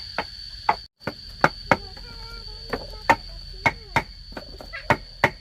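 Hammer driving nails into bamboo: a run of sharp, irregular knocks, about two or three a second. Under them is a steady high buzz of insects, likely crickets.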